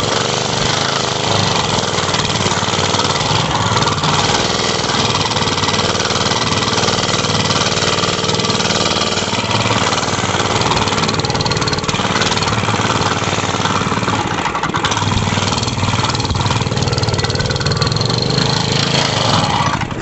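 Mini bike's small engine running loud and steady under throttle while being ridden hard on a dirt trail.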